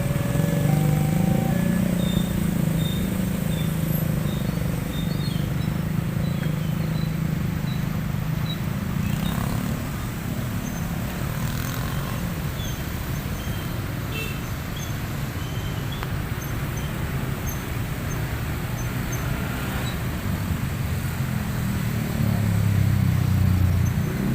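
A vehicle engine's low steady hum, strong for the first several seconds and then fading away, with a deeper engine sound building again near the end. Steady rain-and-wind hiss underneath, with faint short high chirps scattered through.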